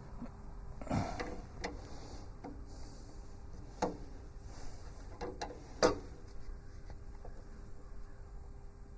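Steel wrench working on the tractor sub-frame's bolts: about half a dozen scattered metallic clicks and knocks, irregularly spaced, as the wrench is fitted and pulled on a stuck nut.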